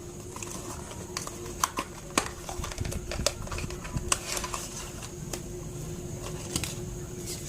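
Earphone retail box being opened and its contents handled: scattered sharp clicks and light rustling of cardboard and plastic packaging, over a faint steady hum.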